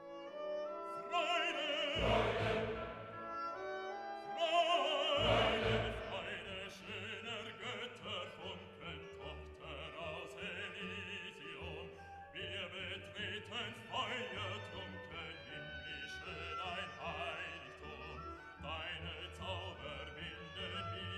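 Operatic singing with classical orchestral accompaniment, the voice held with vibrato. It swells loudest about two seconds in and again about five seconds in.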